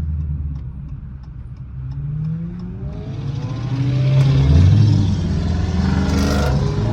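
Dodge Challenger V8 engine accelerating hard: a steady run, then a rev that climbs in pitch and grows louder from about two seconds in.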